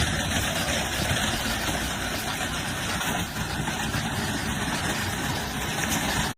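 Machinery with an engine running steadily, a dense, even noise.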